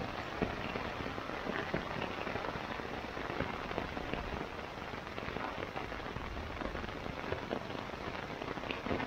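Steady rain pattering on a tent's rain fly, heard from inside the tent: a dense, even spatter of drops with no let-up.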